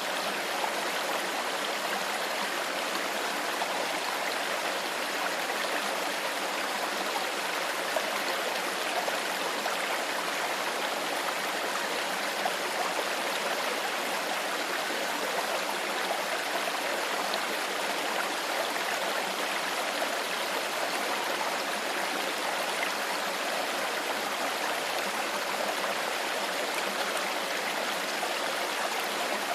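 A small stream of clear water flowing over stones, a steady babbling and trickling rush with no breaks.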